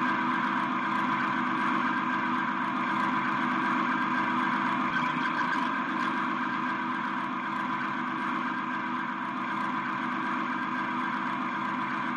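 Small electric motors on a G-scale model railway running steadily, a constant whine made of several steady tones with some mechanical hum.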